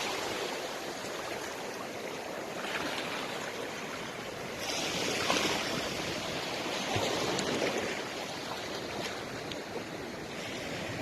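Sea surf washing in at the water's edge: a steady rush of waves that swells louder a few times.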